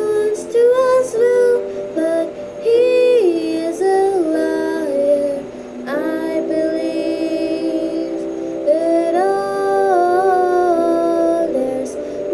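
Music: a female voice singing a wordless melody, with gliding and held notes.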